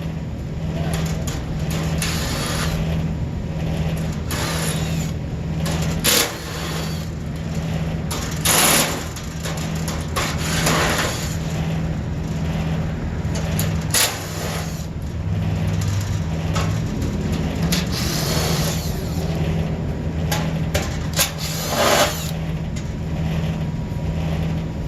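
Walk-in freezer condensing unit running with a steady low mechanical hum, its compressor failing with shot valves, as the technician finds. Several short knocks and rattles break in about 6, 9, 14 and 22 seconds in.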